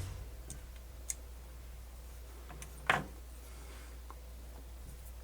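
Small clicks and taps from hands working on a cassette deck's tape mechanism while fitting its drive belt, with one sharper click about three seconds in. A low steady hum sits underneath.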